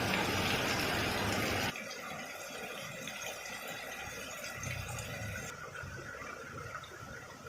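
Rain falling, a dense steady hiss of water that drops suddenly to much quieter rain a little under two seconds in.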